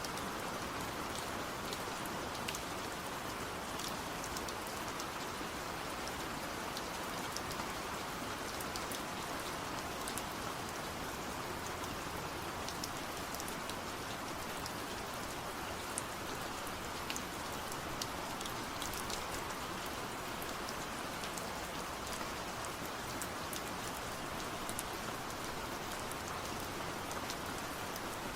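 Steady rain falling, with many separate drops ticking sharply over an even hiss.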